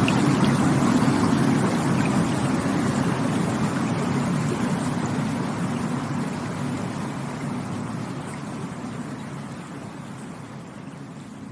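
Rushing stream water, a steady noise that fades gradually quieter.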